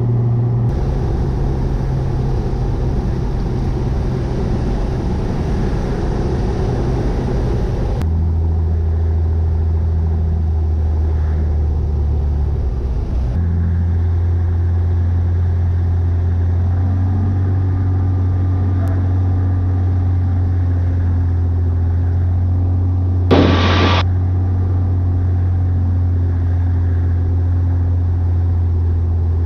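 Cessna 182 Skylane's piston engine and propeller running with a steady low drone. The note drops about eight seconds in as power comes back, then settles lower and holds. A brief burst of noise comes about two-thirds of the way through.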